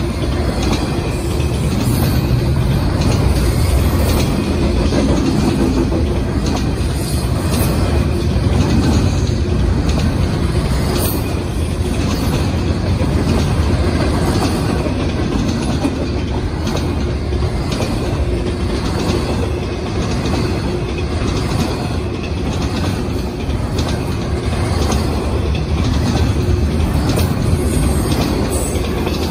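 Intermodal freight train cars rolling past: a steady, loud rumble of steel wheels on the rails.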